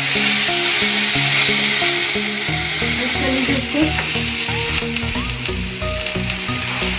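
Ginger-garlic paste and whole spices sizzling in hot oil in a kadai, stirred with a wooden spatula. The sizzle eases a little about halfway through. Soft background music with a stepping melody plays underneath.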